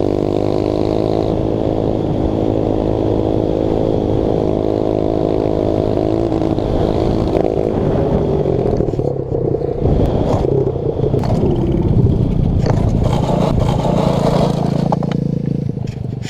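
125cc pit bike engine running hard at high revs with a steady note. About seven seconds in the note breaks up into rougher noise and clatter, fitting the engine cutting out when the kill-switch clip came off.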